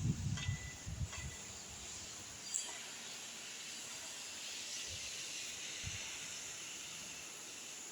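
Steady high hiss of HVAC chiller plant machinery, with a few low thuds in the first second and a single click about two and a half seconds in.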